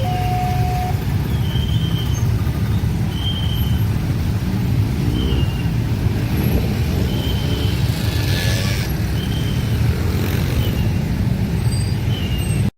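A train passing over a level crossing: a loud, steady low rumble of running wheels and carriages, with short high notes repeating every second or two. The crossing's two-tone warning alarm stops about a second in.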